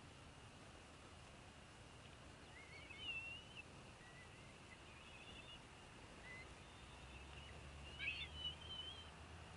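Faint outdoor background hiss with a few short, wavering bird calls, loudest about three seconds in and again near the end.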